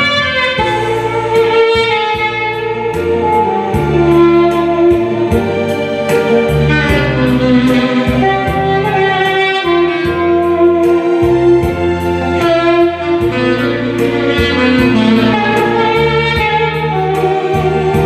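Saxophone playing a sustained song melody over a backing track with a bass line and a steady ticking beat.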